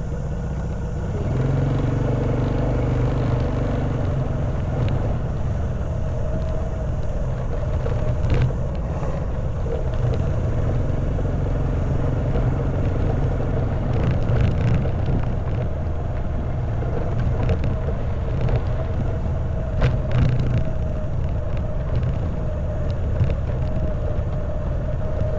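Honda Wave 110cc single-cylinder four-stroke motorbike engine running steadily while riding over a rough stone track, with scattered short knocks and rattles over it.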